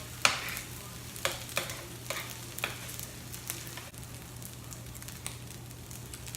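Eggs frying on an electric griller beside fried rice, a steady sizzle, with a few sharp scrapes or taps of a cooking utensil on the griddle in the first three seconds.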